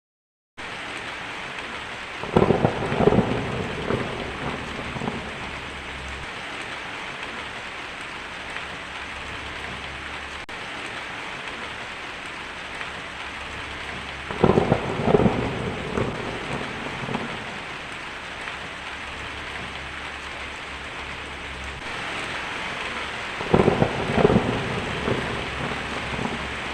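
Steady heavy rain in a rainforest thunderstorm, starting abruptly just after the beginning. Thunder cracks and rumbles three times: about two seconds in, about midway, and near the end.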